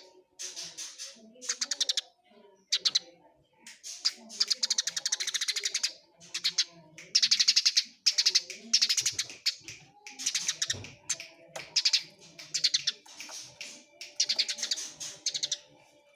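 Eurasian tree sparrows (burung gereja) fighting, giving harsh, very fast chattering calls in repeated bursts of rapid high chirps with short pauses between.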